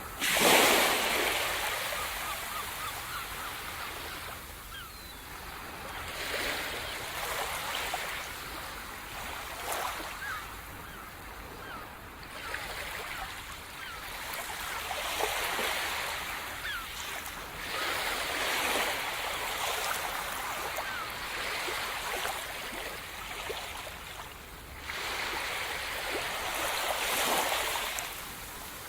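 Sea surf: waves breaking and washing on the shore in surges every few seconds, the loudest about a second in.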